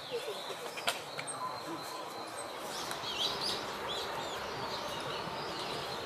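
Birds chirping: a run of short, high, curving chirps begins about two and a half seconds in. There is a single sharp click about a second in.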